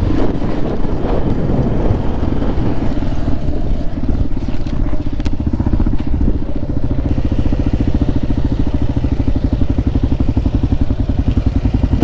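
Motorcycle engine running steadily at low speed, with an even, rapid low pulsing of its exhaust.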